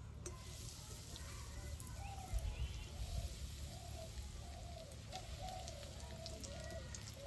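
Breaded egg lollipops sizzling as they deep-fry in hot oil in a wide kadai. From about two seconds in, a bird calls in a series of short repeated notes.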